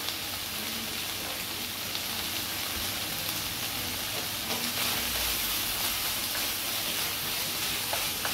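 Shredded chicken frying in a nonstick skillet, a steady sizzling hiss. A few light clicks from a wooden spatula against the pan are heard, and the chicken is being stirred near the end.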